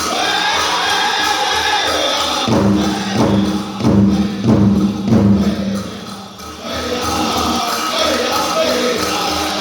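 Powwow drum group singing a prairie chicken dance song over a fast, steady beat on a big drum. In the middle come several louder, harder drum strikes under a held sung note, then a brief drop before the singing picks up again.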